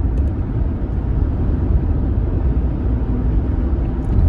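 Steady low rumble of a car, engine and road noise heard from inside the cabin.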